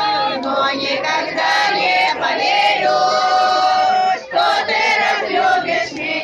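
A group of voices singing together in chorus, with long held notes and a short break about four seconds in.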